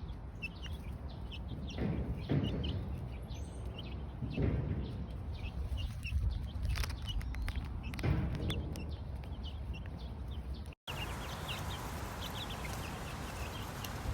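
Chickens making many short, high calls over low rumbling and handling noise. The sound drops out briefly about eleven seconds in and comes back with a different, hissier background.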